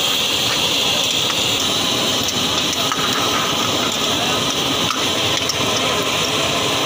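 Prawns sizzling steadily in hot oil in a karahi, stirred with a metal ladle that knocks lightly against the pan a few times.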